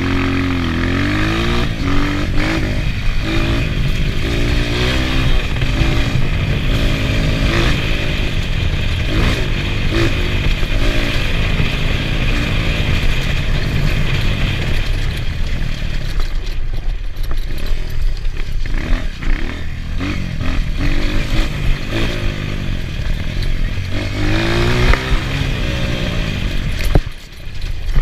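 Enduro motorcycle engine running hard and revving up and down over and over, its pitch climbing and falling as the throttle opens and closes. It drops away briefly near the end.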